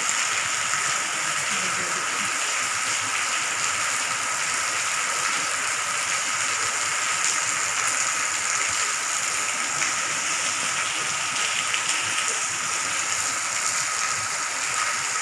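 Heavy rain pouring down steadily on a paved courtyard and rooftops, an even, unbroken hiss.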